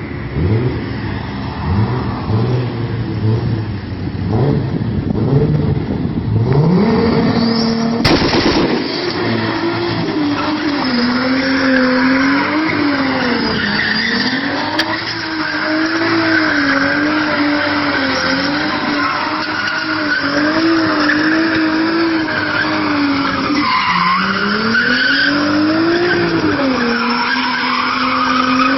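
Toyota Supra Mk4's turbocharged engine running low, then revving up over a few seconds, with a sharp crack about eight seconds in. After that it is held at high revs with the pitch wavering up and down, tyres squealing as the car skids.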